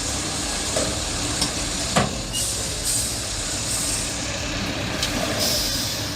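Heavy truck engine running steadily, with a sharp knock about two seconds in and a burst of hiss near the end.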